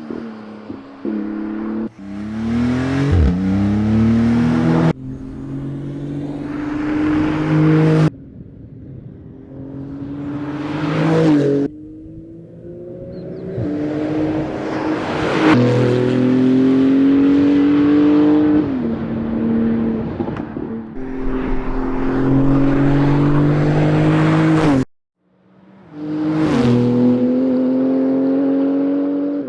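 2018 Porsche 911 GT2 RS's twin-turbo 3.8-litre flat-six engine and exhaust pulling hard. The pitch climbs and then drops at each gear change, over several short clips that cut off abruptly.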